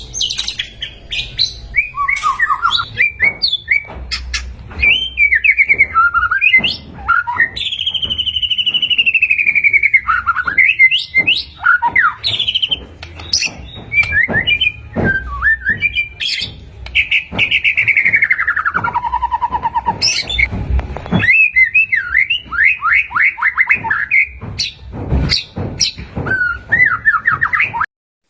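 White-rumped shama (murai batu) singing a continuous, varied song: rich whistles that slide down in pitch, fast runs of repeated notes, and sharp clicking notes, with hardly a pause.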